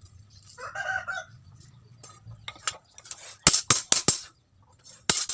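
Several short, sharp metal clinks and taps, bunched together about three and a half seconds in with another near the end, from steel being handled or struck in a blacksmith's workshop. About a second in there is a brief pitched call, like a chicken's.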